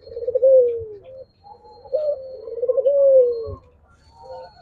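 Doves cooing: two long coos that fall in pitch toward their ends, the second starting about two seconds in, with a few shorter coo notes between.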